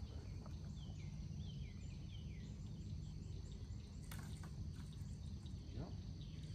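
Outdoor pond-bank ambience: a bird gives a quick series of short chirps about a second in, over a steady high insect drone and a low rumble. One sharp click comes about four seconds in.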